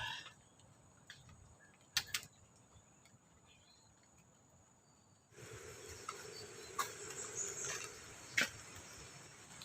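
Crickets or other forest insects trilling steadily on one high note, with a few sharp clicks. About five seconds in, a louder steady hiss starts suddenly underneath.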